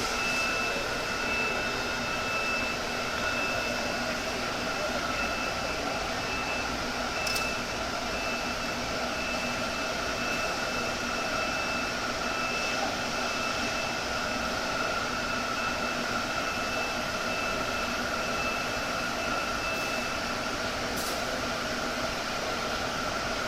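Steady machine whirr, like a small fan or blower, with a constant high whine and a higher tone above it that pulses on and off about once a second and stops around twenty seconds in; a couple of faint clicks.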